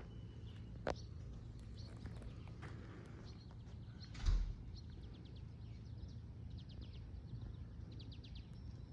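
Steady low hum of an air-conditioning unit running, with a bird chirping in quick trills through the second half. A single thump about four seconds in.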